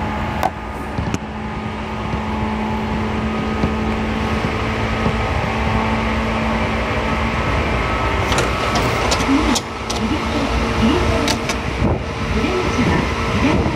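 Running sound inside a Seibu 2000 series electric train car on the move: a continuous rumble of wheels on rail with a steady hum that fades out about halfway through. In the second half the wheels give out a series of sharp clicks and clacks over the track.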